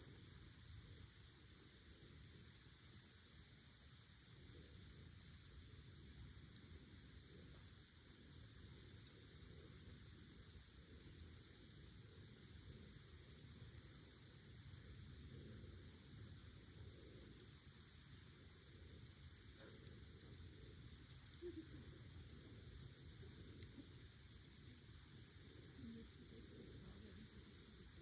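Steady, high-pitched chorus of crickets chirring on a warm summer night, unbroken throughout.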